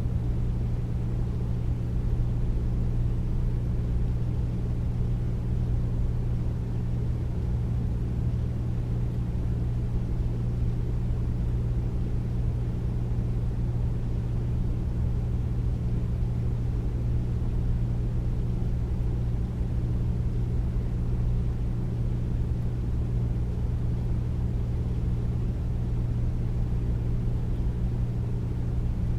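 Air conditioner running steadily: a deep, even hum with a low rumble and no change throughout.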